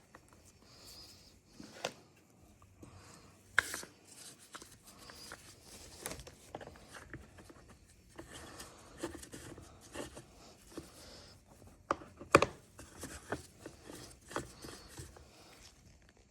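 Hands working on a chainsaw at close range: irregular clicks, taps and rubbing of tools and parts being handled, with two sharper knocks about three and a half seconds in and about twelve seconds in.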